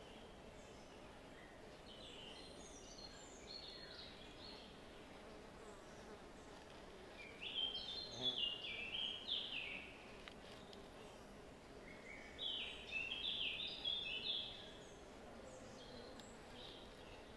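A songbird singing: a faint phrase early, then two loud phrases of quick high notes stepping down in pitch, about seven and twelve seconds in, over a faint steady background hiss.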